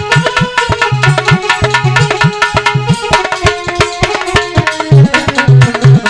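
Instrumental music: Indian hand drums play a fast rhythm with repeated deep bass strokes, under a steady melodic instrument.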